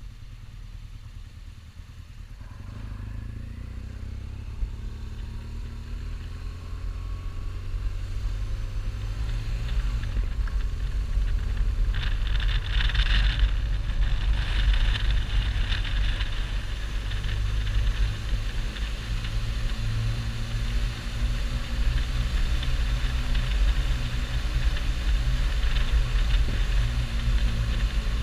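Motorcycle under way: the engine note rises over the first several seconds as it picks up speed, then holds a steady drone with wind and road hiss.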